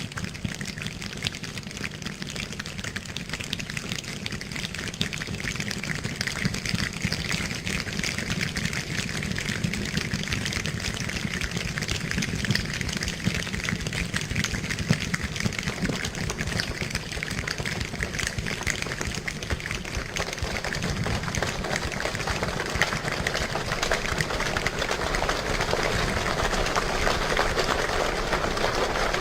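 Clappers rattled quickly and continuously to imitate rain: a dense patter of many small clicks, growing louder toward the end.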